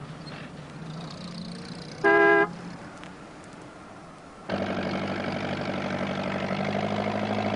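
A vehicle engine runs faintly, then a single short horn toot sounds about two seconds in. About halfway through, a louder engine cuts in and runs steadily.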